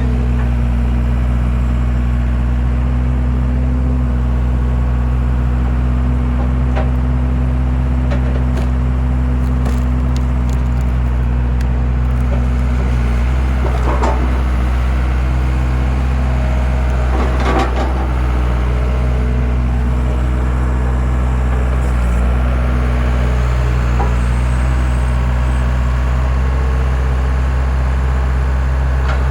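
Skid steer engine running steadily at one pitch while powering a hydraulic wood splitter, with a few sharp cracks of wood splitting about halfway through.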